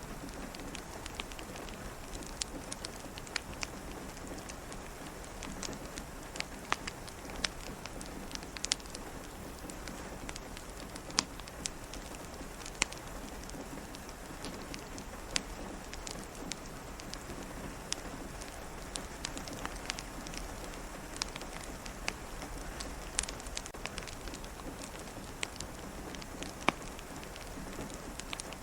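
Steady rain pattering on a window, with a fireplace crackling over it in irregular sharp pops.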